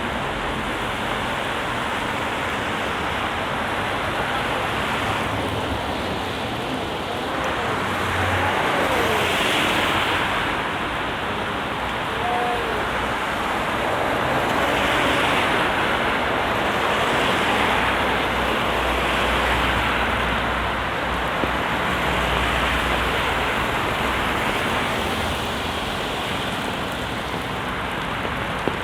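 Rain and traffic on a wet road: tyre hiss from buses and other vehicles swells and fades several times as they pass, with a low engine rumble for several seconds in the middle.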